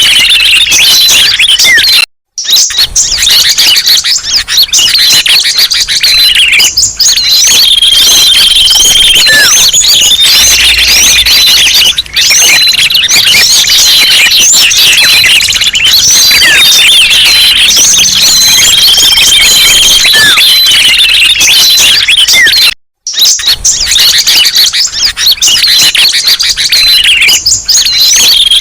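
Bird-call lure recording: a dense chorus of many small songbirds chirping, whistling and trilling over one another, loud and unbroken, with a held whistled note that comes back about every ten seconds. The sound cuts out twice for a split second.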